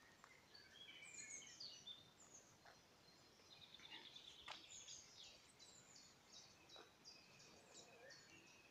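Faint songbirds singing: several short chirps and quick runs of repeated high notes, with a few soft clicks.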